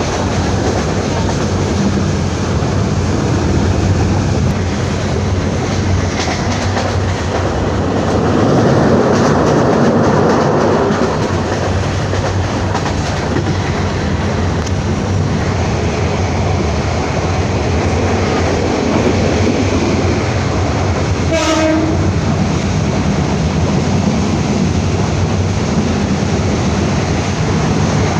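Jamalpur Express passenger train running along the track, a steady rumble with clickety-clack of the wheels. One short horn blast comes about three quarters of the way through.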